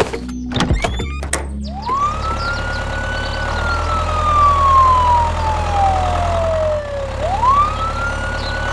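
A wailing siren whose pitch sweeps up quickly and then falls slowly, twice, over a steady low hum. A few sharp knocks come just before the first wail.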